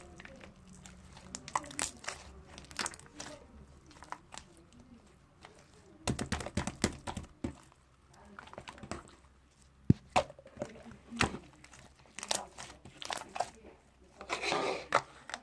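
Slime being squeezed and worked by hand, making irregular sticky clicks and small pops, with a longer squish near the end.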